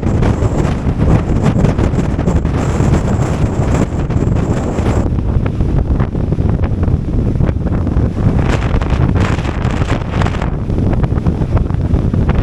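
Strong gale-force wind buffeting the microphone in a loud, low rumble. The sound changes slightly about five seconds in.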